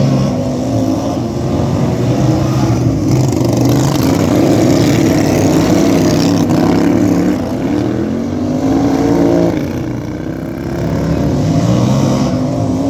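Racing lawn tractor engines running hard, their pitch rising and falling as they accelerate and back off around the track, with a clear rise in pitch about two-thirds of the way in and again near the end.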